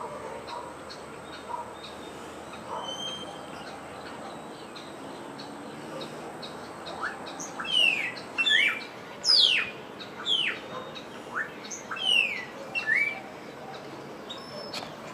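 Wild birds calling in Central American countryside: faint chirps, then about halfway through a run of loud, sharply falling whistled notes repeated about a dozen times over several seconds. A sharp click comes right at the end.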